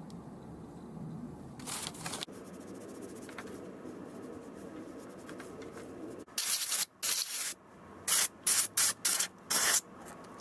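Aerosol spray can sprayed in short bursts: a faint short spray about two seconds in, then seven quick loud bursts of spray from about six seconds on.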